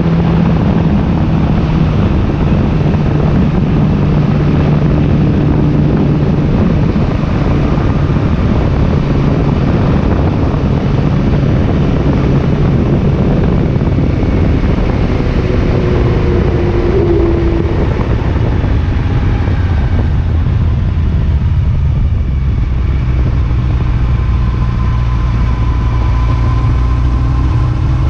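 Motorcycle engine running while riding, over a steady rushing noise; the engine note drops lower about two-thirds of the way through.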